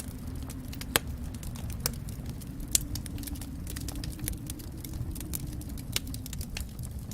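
Wood fire burning in a fireplace: a steady low rumble of flames with irregular sharp crackles and pops, a few louder snaps about a second in, near two seconds and near three seconds.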